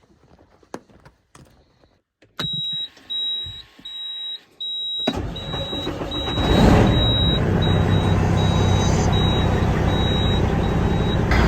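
Semi-truck diesel engine starting about five seconds in and then running steadily. A cab warning beep sounds about twice a second from about two seconds in until near the end.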